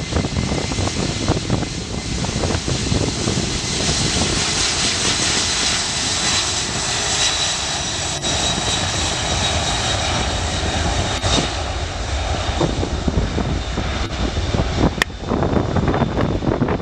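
Jet airliner passing close by, its engines giving a rushing noise with a steady high whine that peaks partway through and then eases off. Wind buffets the microphone underneath.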